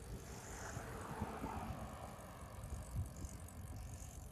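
Bicycle riding along a road: a steady low rumble of wind buffeting the microphone, with tyre and road noise from the moving bike.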